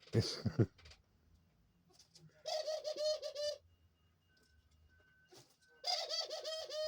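Dove cooing: two wavering coos about a second long each, the first a couple of seconds in and the second near the end. A short, louder sound comes right at the start.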